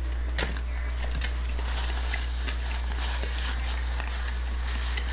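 Close mouth sounds of chewing chicken wings, with a couple of sharp clicks early on, over a steady low hum.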